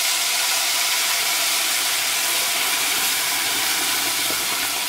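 Wet ground onion-tomato paste poured into hot oil with cumin seeds, sizzling steadily and loudly as its water hits the hot oil.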